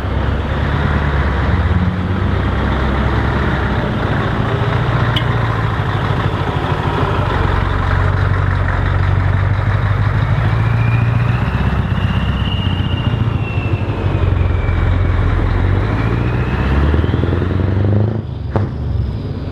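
Heavy truck's diesel engine running loudly with a deep, steady rumble, and a faint whine rising and falling partway through.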